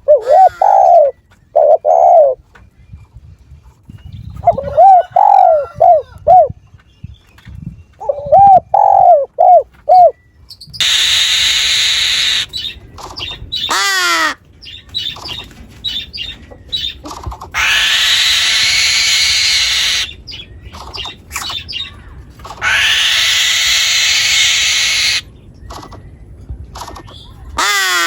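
Bird cooing in phrases of three or four short notes, repeated every few seconds. These are followed by three longer, louder harsh noisy calls, each lasting two to three seconds.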